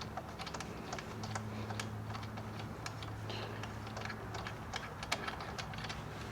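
Light, irregular clicking of hand tools and metal hardware as the front axle clamp bolts on a motorcycle fork are backed out, over a low steady hum.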